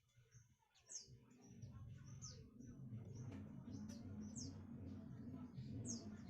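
Small birds chirping faintly, short high notes repeated about once a second, over a low steady hum that comes in after a second or so.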